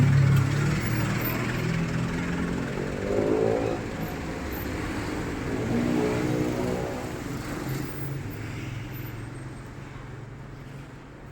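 Engine running steadily with a low hum, swelling briefly twice and gradually getting quieter.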